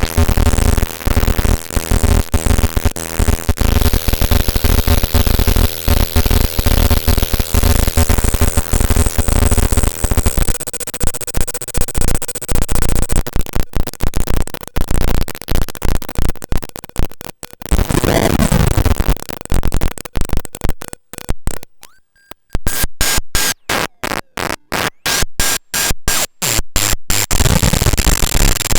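Paratek "Kosmichesky Shum" eurorack noise module, a Jupiter Storm–style square-wave oscillator noise source, putting out harsh, dense buzzing electronic noise. About 18 seconds in a tone sweeps downward, and after that the sound chops on and off in rapid, regular pulses that get faster near the end.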